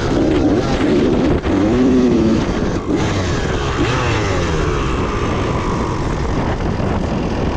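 Dirt bike engine revving up and down repeatedly as it is ridden, over a heavy low rumble of wind noise.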